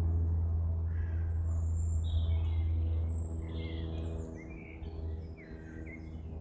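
Small birds chirping and twittering over a steady low drone, the drone the loudest sound and easing off after about four seconds.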